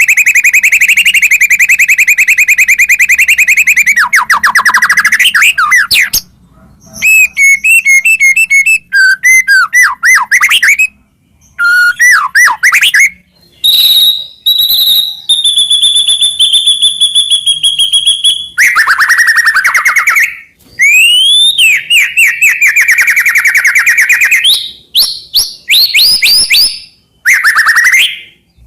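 White-rumped shama (murai batu) singing a long, varied song: fast rattling trills, sweeping notes and clear held whistles, in phrases broken by short pauses.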